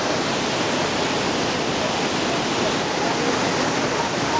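Large waterfall rushing with a loud, steady roar of falling water, heard up close from right behind the fall.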